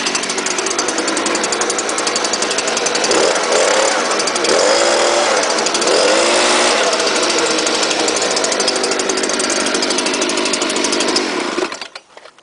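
Stihl BG86 leaf blower's small two-stroke engine running hard after a cold start, its pitch rising and falling a few times in the middle, then shut off near the end.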